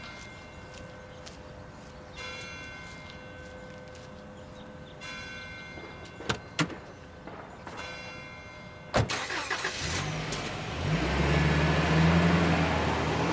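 Bells ringing in repeated strokes, then a sharp knock about nine seconds in, after which a car engine starts and runs, growing louder.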